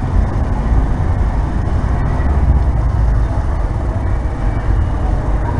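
Steady low rumble of vehicle noise with no distinct events.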